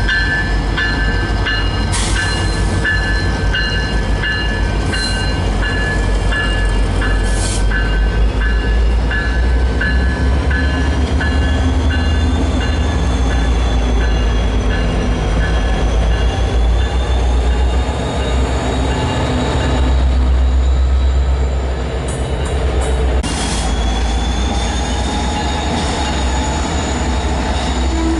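Train rolling through the junction with a steady low rumble, its wheels squealing in high, wavering tones through the second half. During the first third a bell rings about two to three times a second, then fades out.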